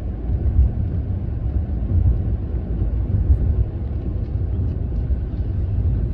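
Steady low rumble of a moving car heard from inside the cabin, with a few faint ticks of light rain on the car.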